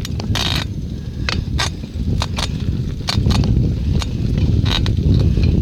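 Wind rumbling on the microphone, with a dozen or so irregular sharp clicks and knocks.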